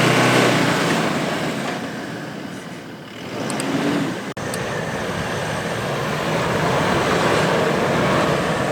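Diesel SUV engine working hard in soft sand. It eases off about three seconds in, then builds back up, with a brief cut-out a little after four seconds.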